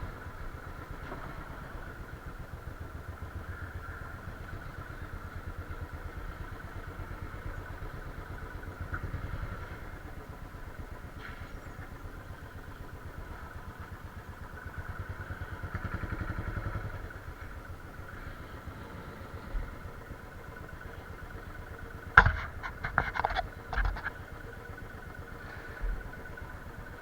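Motorcycle engine idling with a steady, fast low putter that swells briefly louder around the middle. A quick cluster of sharp clanks and knocks comes about 22 seconds in.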